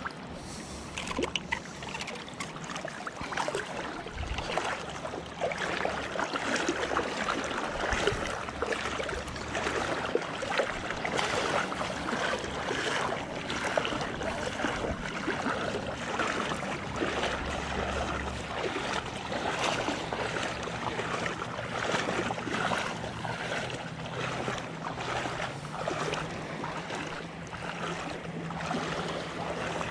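Water sloshing and lapping close to the microphone, with wind noise and scattered small clicks and rattles.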